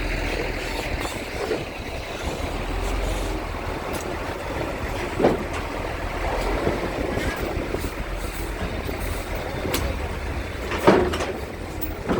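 Strong wind buffeting the microphone over a steady low engine rumble, with two louder knocks, one about five seconds in and one near the end.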